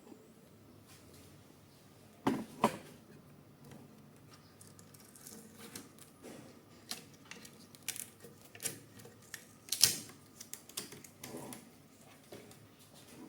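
Irregular clicks, taps and knocks of 3D-printer parts and packaging being handled during assembly, with two louder knocks about two seconds in and a busy run of clicks later, loudest near ten seconds.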